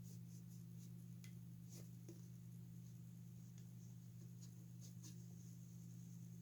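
Faint scratching and light, irregular clicks of a small plastic toy figure being scrubbed clean by hand, over a steady low electrical hum.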